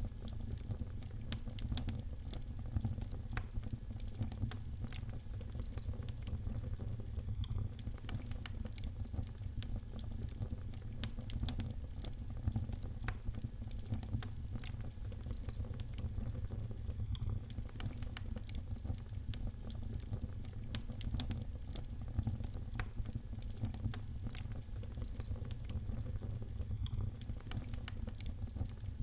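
Fire crackling in a fireplace: frequent sharp pops and snaps over a steady low rumble.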